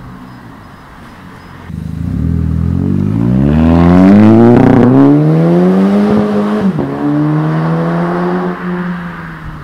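Audi TT's turbocharged 2.0-litre four-cylinder running through a Flowmaster exhaust. It starts at a low, steady note, then about two seconds in the revs climb hard and steadily. After a brief break near seven seconds it holds a lower, steady note.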